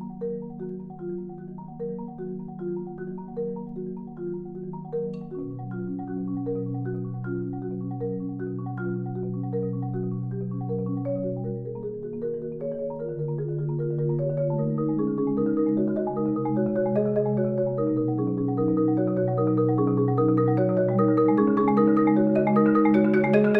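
Solo marimba playing long rolled bass notes under quick, repeating figures in the middle and upper range. It grows steadily louder, building to a climax near the end.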